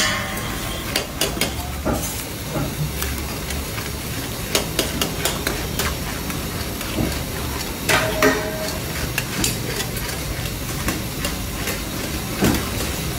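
Chicken karahi sizzling in a steel karahi wok over a gas flame, with irregular clinks and scrapes of metal spatulas against the pan as it is stirred.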